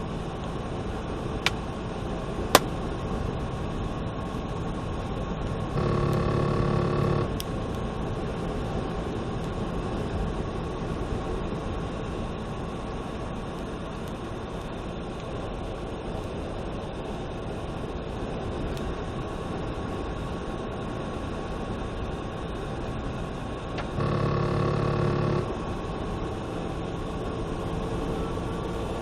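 Steady noise of a car driving through a heavy storm, with rain and road noise heard inside the cabin. Two sharp clicks come early on, and a steady horn-like tone sounds twice for about a second and a half each.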